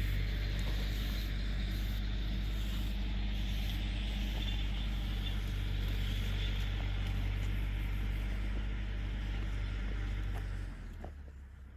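An engine running steadily: a low, even drone with a hiss above it, fading away near the end.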